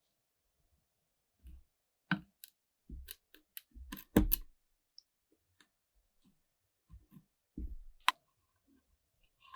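Parts of an old metal mining lantern being handled and taken apart: irregular clicks and knocks, the loudest a little past four seconds in and a sharp click about eight seconds in.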